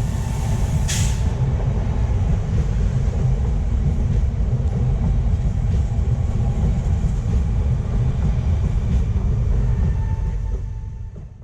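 Steady low rumble of a car driving on the road, engine and tyre noise with a hiss over it, cutting off suddenly near the end.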